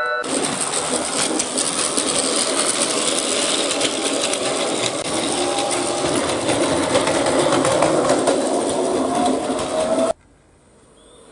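Battery-powered Plarail toy trains running on plastic track: a steady whirring of the small motor and gears with a fine clatter of wheels over the track joints, cutting off suddenly about ten seconds in.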